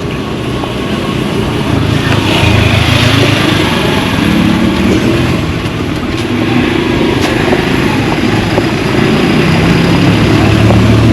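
A motor vehicle engine running, its hum rising and falling and growing louder about two seconds in and again near the end, over steady street noise.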